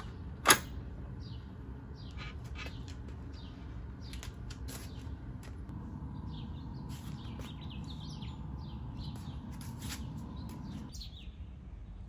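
Small birds chirping repeatedly in short falling notes over steady outdoor background noise, with one sharp, loud click about half a second in.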